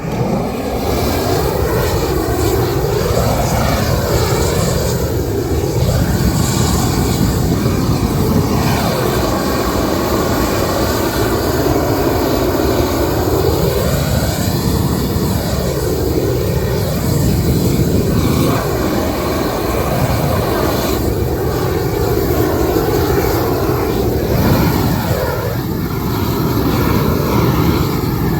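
Propane blowtorch burning with a loud, steady roar, heating isogam bitumen membrane to weld it onto the roof; its tone swoops up and down again and again as the flame is swept back and forth.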